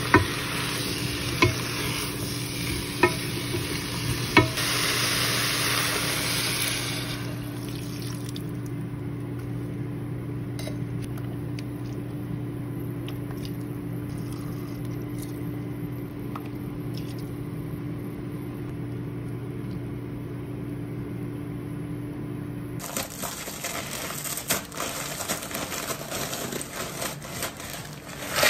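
Beef and vegetables sizzling in a pot while a spatula stirs them, knocking against the pot four times in the first few seconds. The sizzle then dies down under a steady low hum with scattered small clicks. Near the end a plastic bag crinkles as greens are tipped out into a glass bowl.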